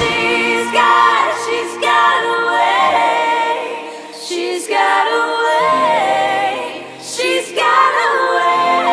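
Pop song passage of layered, choir-like female vocal harmonies over sustained low notes, with no drums.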